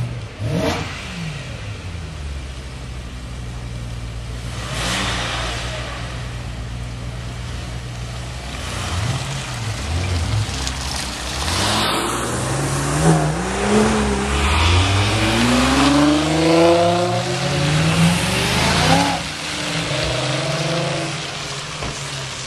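Sports car engine idling with short revs, then accelerating hard, its pitch rising in several sweeps before easing off near the end.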